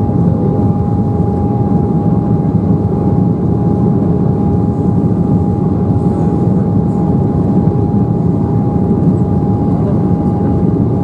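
Cabin noise inside an Embraer 190 jet under way: a steady rush from its General Electric CF34 turbofans and the airflow, with a steady engine whine held on one pitch.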